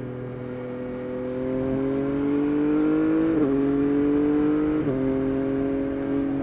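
Yamaha Tracer 9 GT+'s CP3 inline-three engine through a Roadsitalia titanium exhaust, pulling and rising in pitch under acceleration. Two quick upshifts break the pitch, about three and a half and five seconds in, and then it runs at a steady cruise.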